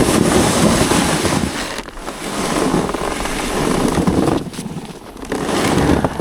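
A sled towed behind a truck, sliding fast over snow: a steady rushing, scraping noise with wind on the microphone, dropping away briefly twice.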